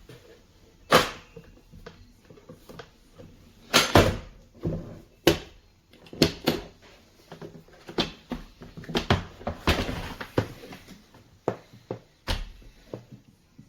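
A folding hand truck being handled: a string of irregular clacks, clicks and knocks, the loudest about a second and four seconds in, with a denser rattle around ten seconds in.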